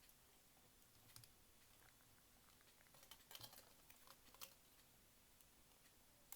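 Faint, scattered small clicks and taps of cassette-player parts being handled during reassembly: a couple about a second in, a cluster between three and four and a half seconds, and one sharp tick near the end.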